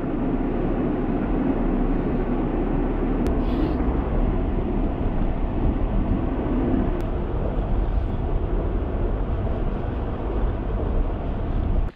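A vehicle being driven, with a steady low rumble of engine and tyres, and two brief clicks about three and seven seconds in.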